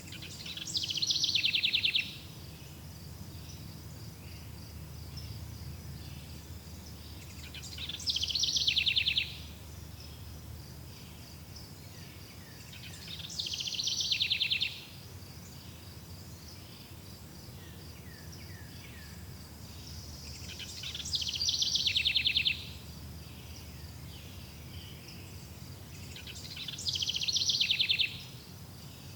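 A songbird singing the same short song five times, about every six seconds, each phrase swelling into a fast high trill. Under it runs a constant high chirring of insects and a low steady rush.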